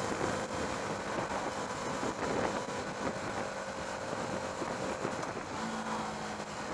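KTM Duke 390's single-cylinder engine running steadily at road speed, mixed with wind rush on the helmet microphone.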